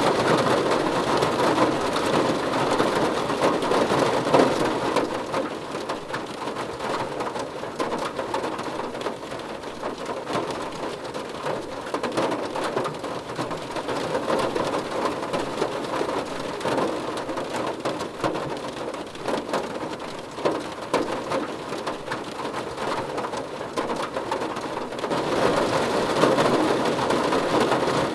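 Steady rain falling and splashing on surfaces, a dense even hiss. It eases somewhat after the first few seconds and grows heavier again near the end.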